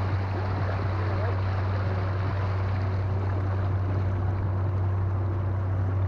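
Inflatable boat under way on a 48 V electric outboard motor: a steady low hum with water rushing along the hull.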